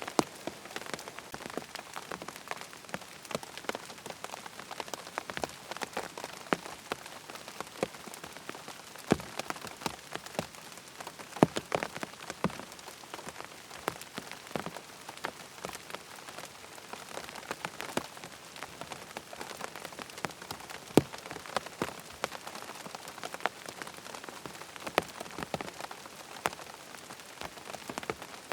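Rain falling on a tent's fabric: a steady patter with many separate, irregular drop hits, some much louder than the rest.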